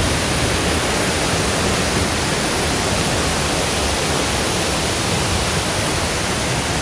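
Steady rushing of a mountain river's water, an even hiss across all pitches with no breaks.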